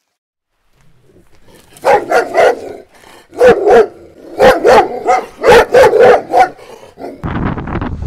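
Dog barking, about ten loud barks in quick groups of two or three. Near the end a steady rushing noise like wind takes over.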